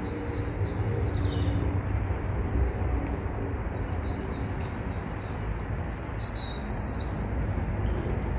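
Small songbird singing a fast run of repeated high notes, about four a second, in two bouts. A burst of quick sweeping chirps follows about six seconds in. A steady low rumble runs underneath.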